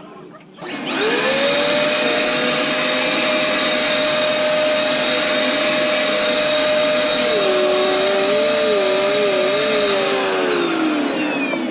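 Dirt Devil bagless vacuum cleaner switched on: its motor whines up to speed just under a second in, runs steadily with a tone that wavers for a couple of seconds, then winds down with falling pitch near the end as it is switched off. It runs but has lost suction, failing to pick up leaves because something is blocking its airway.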